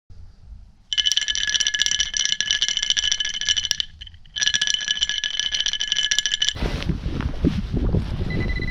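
A metal detecting pinpointer sounds a loud, rapidly pulsing high buzz on a target in the dig hole. The buzz cuts out for about half a second in the middle, comes back, and stops. It is followed by low rumbling wind noise on the microphone and a short beep near the end.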